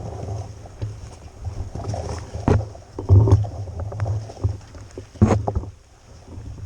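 Electric mountain bike riding over a rough, wet trail: irregular knocks and rattles from the bike, with gusts of wind rumbling on the camera microphone.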